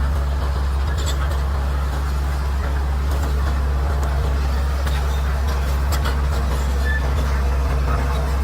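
Bulldozer's diesel engine running steadily at a constant pitch, a deep even hum, with faint scattered clicks over it.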